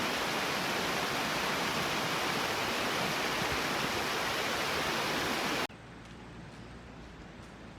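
A loud, steady rushing hiss that cuts off abruptly about six seconds in, leaving a much quieter background with a few faint ticks.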